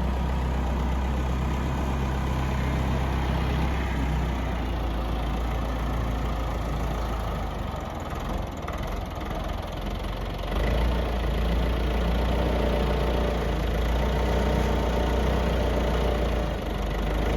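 Tractor engine running steadily with a deep hum, growing louder about ten seconds in.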